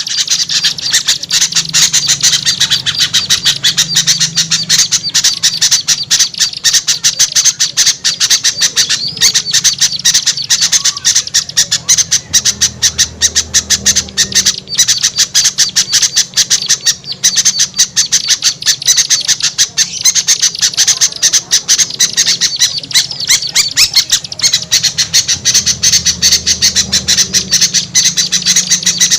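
Dense, continuous, noisy chattering and squawking of many small songbirds: a bird-lure combination recording of small-bird alarm and contact calls, used to draw reluctant small birds down.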